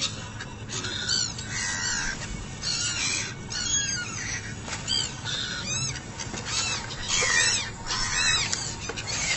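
Birds chirping: many short, quick chirps that repeat, several at a time in places.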